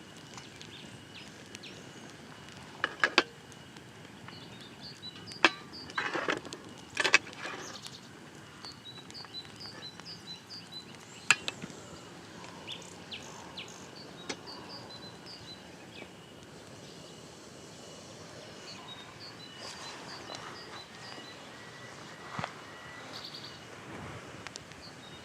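Outdoor campsite ambience: a steady high insect drone under runs of quick, high bird chirps. A few sharp knocks and clatters of camp handling come in the first half, the loudest about three, five and seven seconds in and again near eleven seconds.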